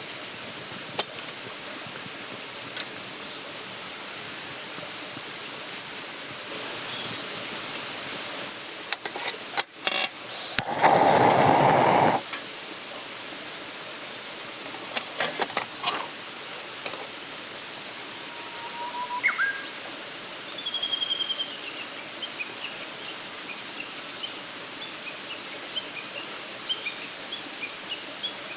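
Campfire crackling against a steady outdoor hiss, with scattered sharp pops. A loud rushing burst comes about ten seconds in, and in the second half there is a run of short high chirps.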